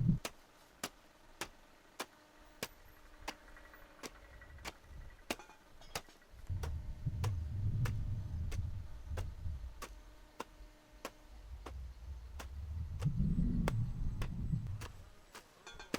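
Steady, even ticking, just under two ticks a second, with a low rumble that swells and fades twice, once in the middle and again near the end.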